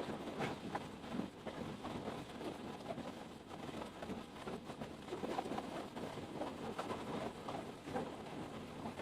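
Heavy rain falling, a dense irregular patter of drops.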